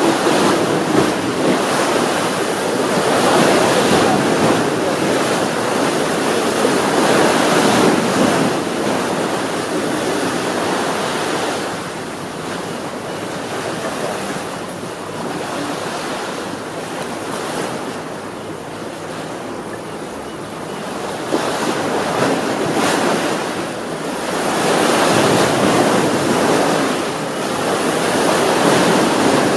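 Sea waves breaking and washing up the shore: a steady rush of surf that swells and eases, louder through the first several seconds and again near the end, softer in the middle.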